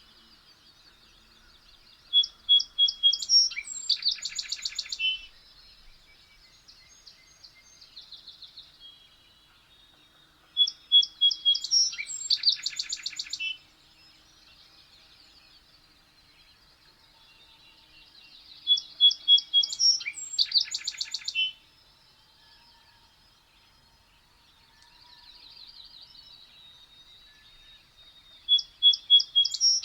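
A songbird singing the same short phrase four times, about every eight seconds: a run of clear notes speeding into a fast trill and ending in a short flourish. Fainter chirps come in the gaps between phrases.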